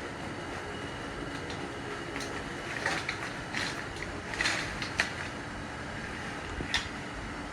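Live crawfish being dumped into a pot of boiling water: a few scattered clatters and rattles of shells, mostly between about three and seven seconds in, over a steady rushing background.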